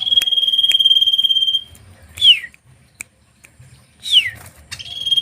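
Songbird song: a steady, rapidly pulsed high trill lasting about a second and a half, followed by two sharp falling whistles, then the trill starting again near the end.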